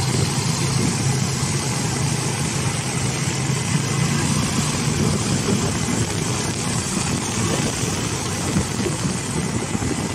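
Steady engine and road noise of a road vehicle being driven along, with a constant low hum.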